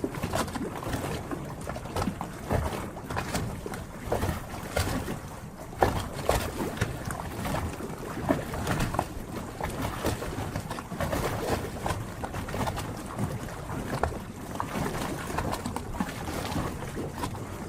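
Harbor water lapping and sloshing against moored boats and the quay, with irregular small slaps and splashes.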